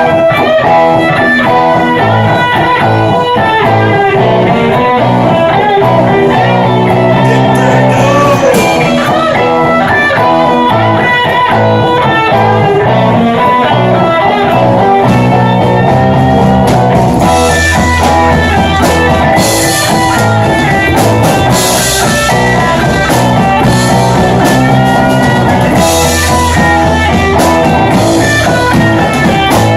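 Live rock band playing: electric guitar over bass and drums, with the drums and cymbals hitting harder from a little past halfway.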